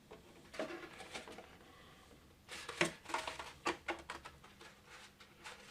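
Scattered light clicks and taps of small 3D-printed plastic parts being handled and fitted. There are a few about a second in and a denser run from about two and a half to four seconds in.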